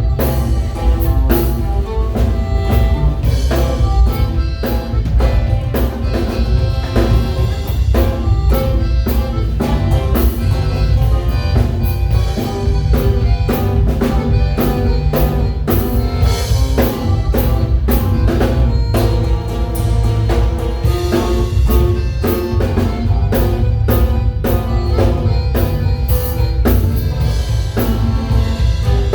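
Live waila band playing, a drum kit keeping a steady beat under bass and melody instruments.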